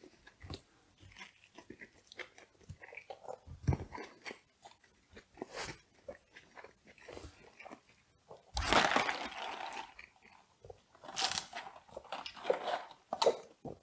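A person chewing and crunching fast food close to the microphone, with wet smacks and crackles, and a louder stretch of crunching lasting about a second and a half around nine seconds in.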